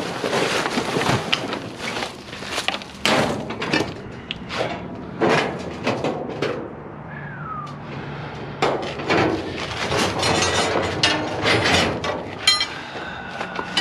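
Scrap and debris in a dumpster being shifted and pulled about: irregular clanks, bangs and knocks with rustling and scraping between them, and one short falling squeak about seven seconds in.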